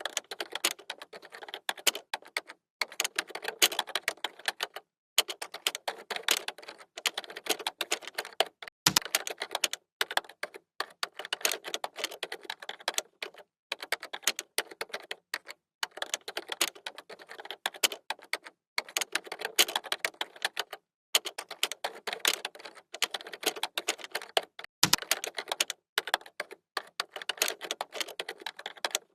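Typing on a computer keyboard: fast runs of key clicks broken by short pauses every couple of seconds, with a low thump twice.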